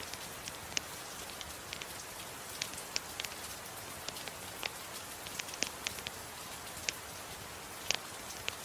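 Soft rain falling in a steady hiss, with a wood fire crackling over it in sharp, irregular pops, the loudest right at the start.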